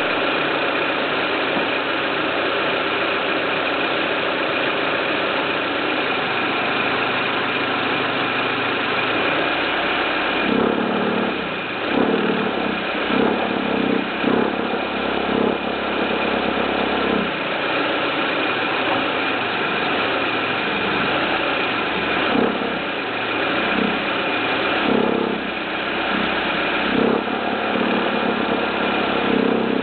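First-generation Renault Kangoo engine running, with an abnormal noise from the engine bay. From about a third of the way in, louder, lower bursts come and go every few seconds over the steady running sound.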